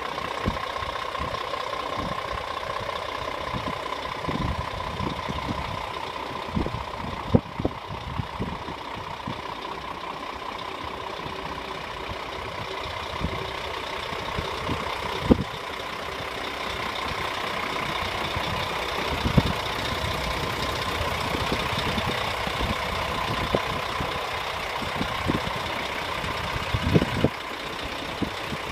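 Heavy truck engine idling steadily, with a steady whine over it and scattered short low thumps.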